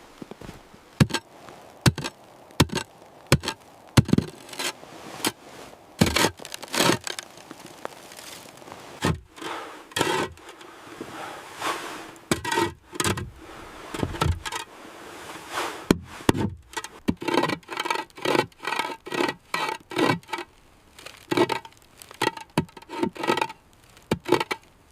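A long series of sharp knocks and scrapes, spaced out at first and coming faster and denser in the second half.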